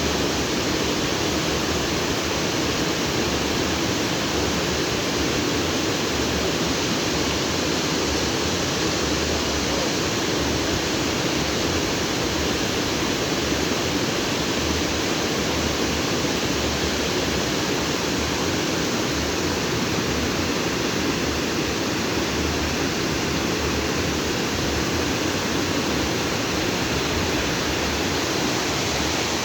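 Stream water rushing and splashing over rocks, a steady full rushing sound.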